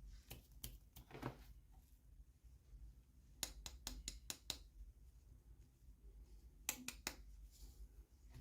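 Faint, sharp clicks and taps of small plastic toy pieces and packaging being handled during unboxing: a few scattered clicks, then a quick run of about six a few seconds in, and three more near the end.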